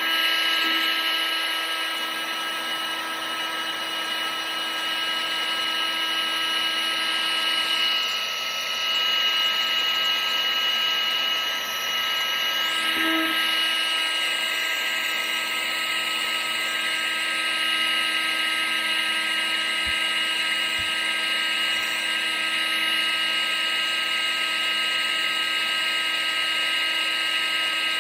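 Vacuum cleaner motor running steadily: a constant whine of several steady tones over a rushing hiss, used as continuous white noise.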